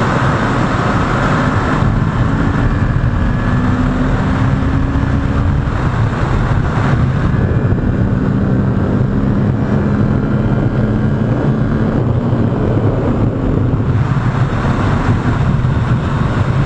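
Kawasaki Ninja 650's parallel-twin engine running steadily at cruise, with wind rushing over the helmet microphone.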